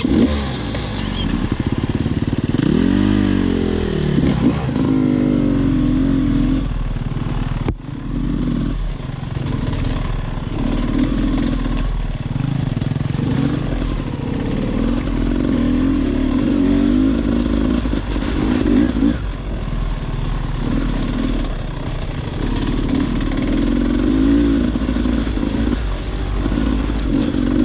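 Dirt bike engine heard from on the bike, its pitch rising and falling again and again as the throttle is opened and closed, over a steady low rumble.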